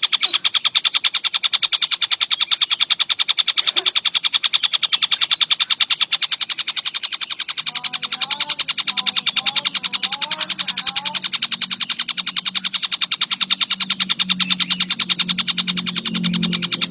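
Tengkek buto kingfisher chattering nonstop: a rapid, unbroken run of sharp, high calls. A low hum comes in about halfway through.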